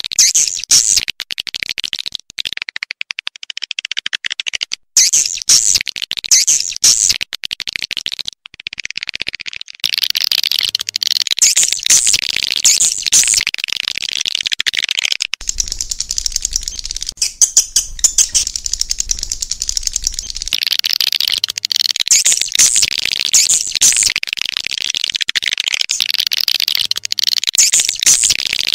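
Swiftlet calls: dense, rapid chirping and twittering trills. There are short breaks in the first few seconds, and the chirping runs almost unbroken from about ten seconds in.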